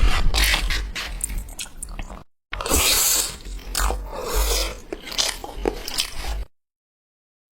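A cat chewing and crunching its food, dense quick clicks of bites. The sound cuts out abruptly twice: briefly just after two seconds in, and again for the last second.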